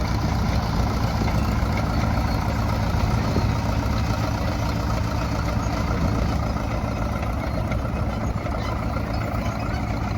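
Vintage crawler tractor engine running steadily with a low, even drone.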